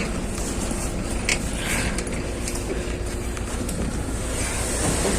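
Steady low rumble of a LiAZ 6213.22 articulated diesel city bus's engine and cabin, heard from inside, with a few light clicks and rattles. A high hiss comes in about four seconds in.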